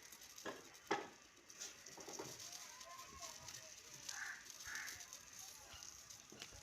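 Quiet farmyard background: a couple of sharp knocks in the first second, then two short animal calls, like fowl, about four seconds in.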